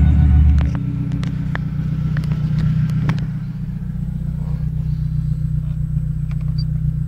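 Heavy bass from a car sound system cuts off under a second in, leaving a car engine idling steadily with a few scattered light clicks.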